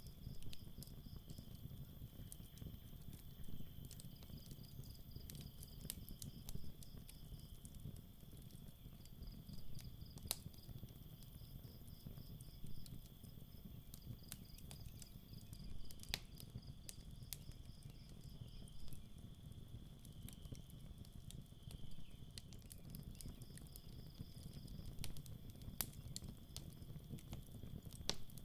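Campfire crackling, with sharp pops at irregular moments over a low steady rumble of burning. Night crickets chirp in high pulsing trills that come and go every few seconds.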